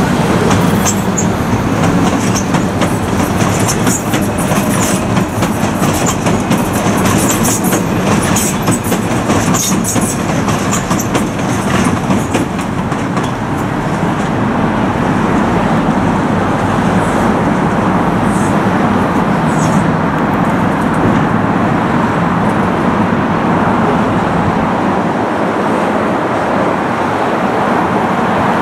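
Docklands Light Railway B2007-stock train running over curved track and pointwork with a steady rumble. Its wheels click sharply and repeatedly over the rail joints and points, mostly in the first half, and give a few brief high squeals.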